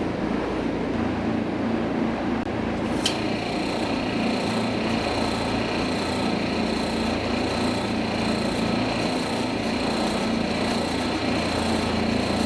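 Steady hum of running machinery. A sharp click comes about three seconds in, after which a high steady whine joins and holds.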